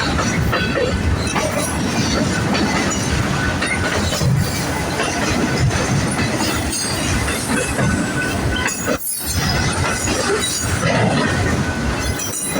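Freight cars of an empty BNSF manifest train rolling past: a steady, loud rumble and clatter of steel wheels on rail, with a brief dip about nine seconds in.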